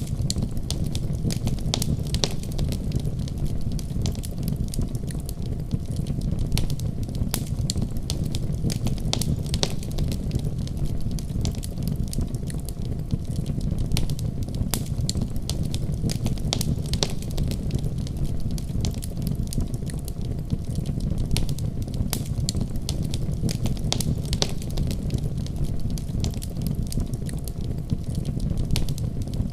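Wood fire burning in a fireplace with a steady low rumble and frequent sharp crackles and pops scattered throughout.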